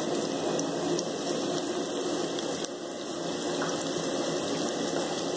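Sliced onions sizzling in hot oil in a cooking pot, a steady frying hiss.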